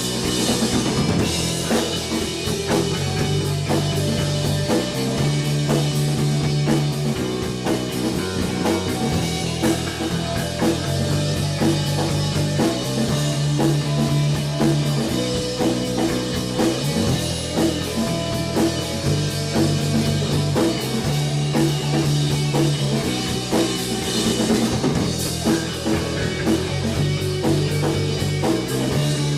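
Rock band playing live: drum kit and guitar over a low, repeating bass line, with no clear singing.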